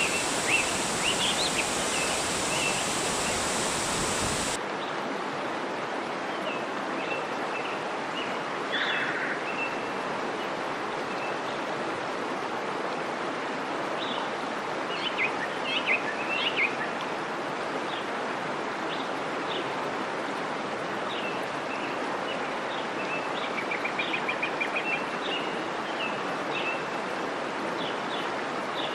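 Steady rush of a waterfall, with small birds chirping and calling over it and a quick trill about three-quarters of the way through. The water sound changes abruptly about four and a half seconds in.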